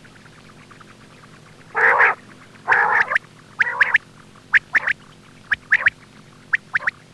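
Quail calling: after a short pause, two low raspy notes about a second apart, then a series of short, sharp, clipped calls in quick pairs and threes.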